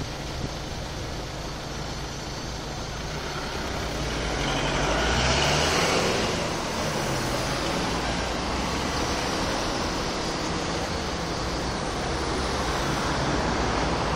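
Road traffic at a junction, a steady rush of passing vehicles, with one vehicle going by louder about five seconds in.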